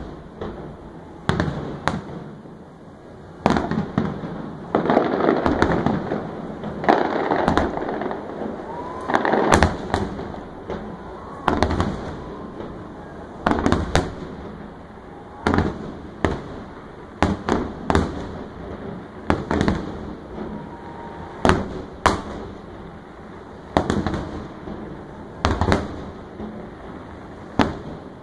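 Aerial fireworks shells bursting one after another, a sharp bang every second or two, each trailing off in an echo, with a steady hiss between the bangs that is thickest about a third of the way in.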